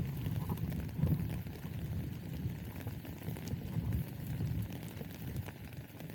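Rainy street ambience while walking: an uneven low rumble with faint scattered ticks of rain.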